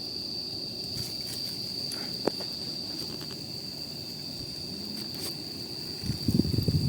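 Wood campfire crackling, with scattered sharp pops, under a steady high insect trill. About six seconds in, a louder uneven low rumbling starts.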